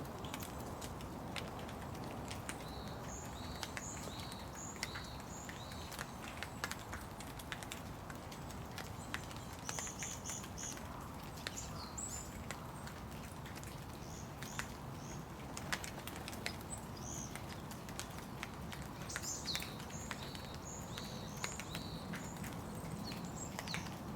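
Steady rain falling, with frequent sharp drips and drops pattering close by. A small bird calls at intervals in runs of short, high chirps.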